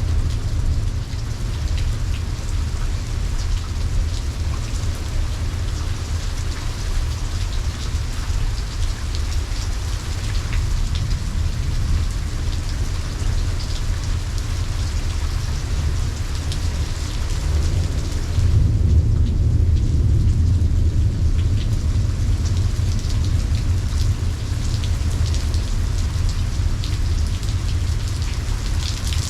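Steady rain falling in a thunderstorm, with a continuous low rumble of thunder underneath. About two-thirds of the way in the rumble swells louder for a few seconds, then eases back.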